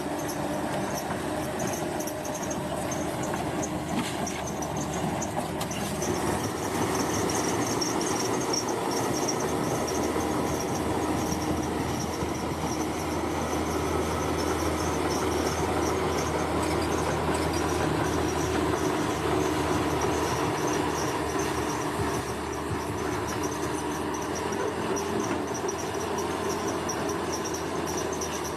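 Bulldozer's diesel engine running steadily under work, with a high pulsing buzz above it.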